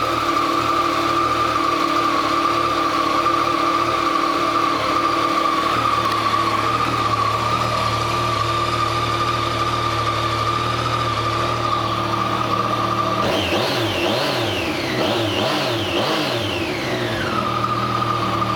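2014 Yamaha FZ-09's 847 cc inline-three engine idling steadily. Near the end the throttle is blipped several times in quick succession, rising and falling in pitch, before the engine settles back to idle.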